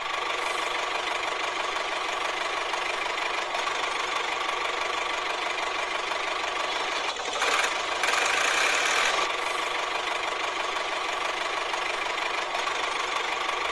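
A small electric motor running steadily with a buzzing rattle, louder for about two seconds in the middle.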